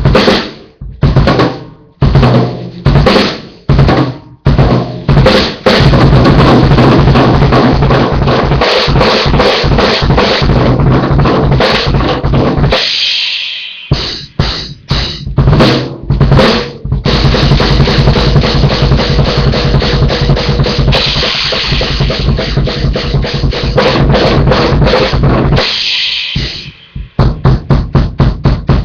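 Drum kit played loud in fills and breakdowns: separate snare and bass drum hits at first, then long runs of fast, dense playing with cymbals. Each run ends in a ringing cymbal crash, about thirteen seconds in and again near the end, followed by scattered single hits.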